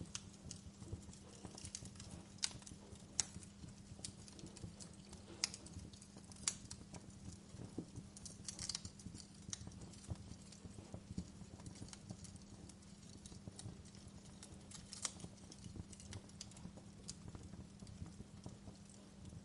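Wood fire crackling in a fireplace: faint, irregular pops and snaps, a few sharper than the rest, over a steady low rumble and hiss.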